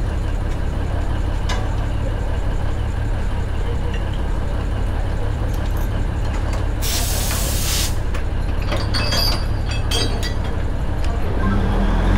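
Alishan Forest Railway train running with a steady low rumble. About seven seconds in, a hiss of air lasting about a second, typical of the train's air brakes venting, followed by a few light clicks and clanks.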